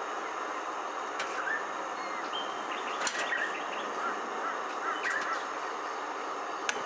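Several short bird chirps and calls scattered over a steady hiss of outdoor background noise, with a few sharp clicks.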